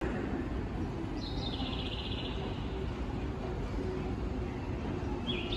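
Steady low background rumble, with a small bird's short, quickly pulsing trill that drops in pitch about a second in and another starting near the end.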